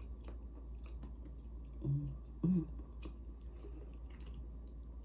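A person chewing a mouthful of macaroni and cheese close to the microphone: soft, wet mouth clicks and smacks. Two short hums of the voice come about two seconds in and again half a second later.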